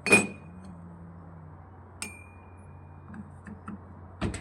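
Sharp metal-on-metal clinks during compressor repair work: one hit at the start and another about two seconds in, each leaving a short high ring, then a couple of knocks near the end, over a steady low hum.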